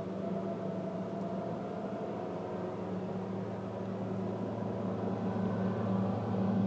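Yamaha outboard motor on a Targa 30 boat running under way, a steady drone that grows slightly louder near the end.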